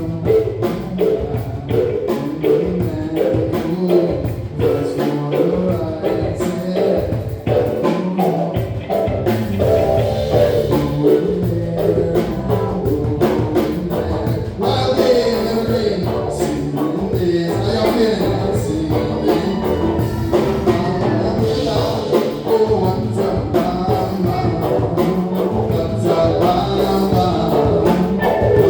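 A live band playing a song, with a drum kit keeping a steady beat and a voice singing at times.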